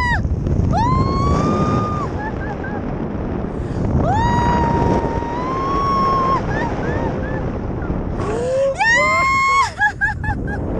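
A woman yelling long, high, held cries in flight, three long ones with short yelps between, over wind rushing on the microphone.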